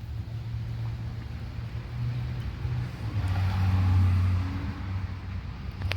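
Low, steady hum of a motor vehicle engine, swelling to its loudest about four seconds in, as a car does when passing.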